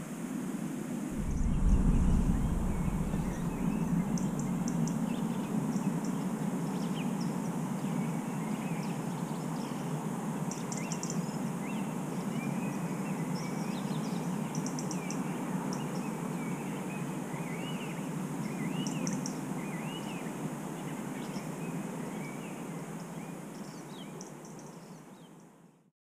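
Several birds calling and singing at dusk in a spring forest: short high chirps and repeated arched whistled notes, over a steady low rushing noise. A low thump about two seconds in is the loudest moment, and the sound fades out near the end.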